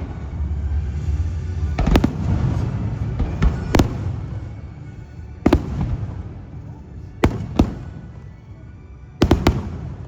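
Aerial fireworks shells bursting: sharp bangs every second or two, twice in quick pairs, over a low rumble and crackle from the show.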